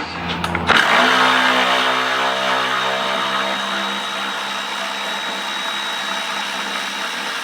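Handheld power tool's motor running steadily with a high whine as it spins out a 12 mm fastener. It starts just under a second in and cuts off suddenly.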